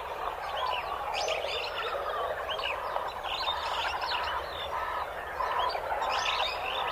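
Many chicks peeping at once: short chirps overlapping one another over a dense, steady bed of bird chatter.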